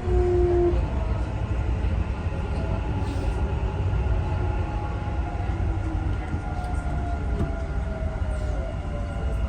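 Dubai Metro train running between stations, heard from inside the carriage: a steady low rumble of the wheels on the track under the whine of the electric drive, with a few tones gliding slowly down in pitch.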